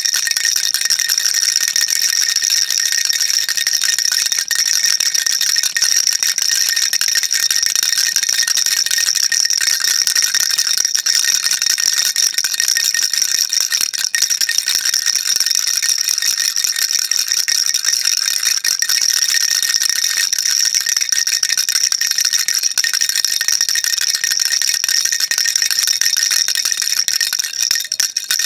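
Baby rattle shaken continuously, a dense, steady stream of rapid small clicks from the beads inside, with a bright, high ring.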